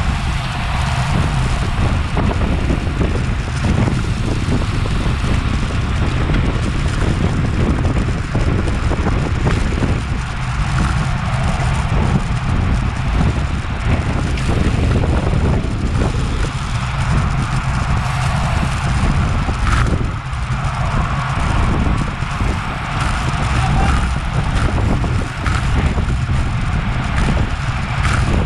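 Wind buffeting the action camera's microphone on a road bicycle at racing speed: a loud, steady rumble with a hiss of rushing air over it.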